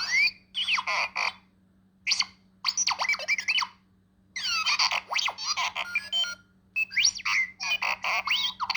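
R2-D2 droid sounds played by an electronic sound book: bursts of chirping beeps and whistles with rising and falling sweeps, each a second or two long, with short pauses between them.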